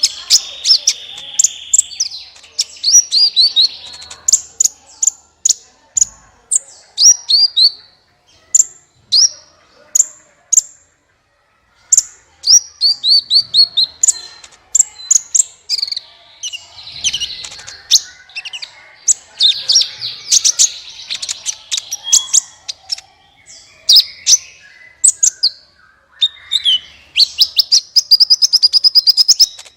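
Sunbird ('kolibri') song: a fast, loud run of high, sharp chirps and quick falling notes, with a brief pause about eleven seconds in and a rapid trill near the end.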